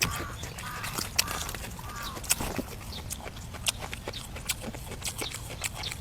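Close-up eating sounds: wet chewing, with many sharp clicks and smacks from a man eating braised duck. Over the first two seconds there are about four short calls that rise and fall, from an animal in the background.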